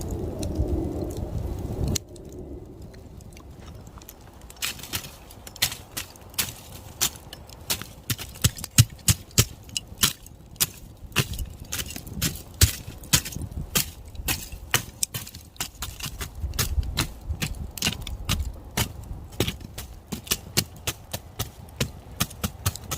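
A steady low rumble that stops suddenly about two seconds in, then irregular sharp pops and cracks of burning firewood in a campfire, some of them loud.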